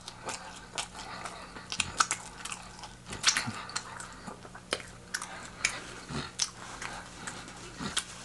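Close-miked chewing and biting of crispy fried chicken wings: irregular wet crunches and mouth clicks.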